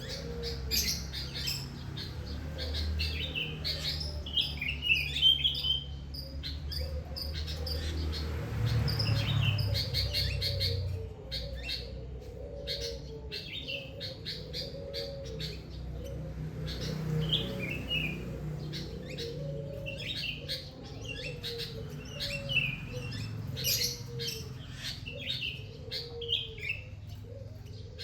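Many small birds chirping and twittering in a morning chorus, with a lower call repeating steadily underneath. A low rumble runs beneath them through the first part and fades about eleven seconds in.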